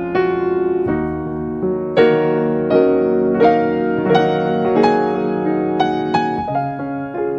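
Background music: soft solo piano playing a slow melody, notes struck about every half second and left to ring.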